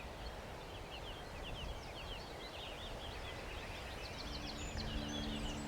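Quiet woodland ambience with small birds chirping and twittering continually in the distance. From about four seconds in a faint low steady hum joins.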